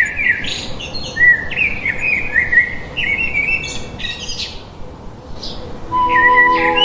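Birds chirping in a quick run of short rising notes. Flute music comes back in near the end.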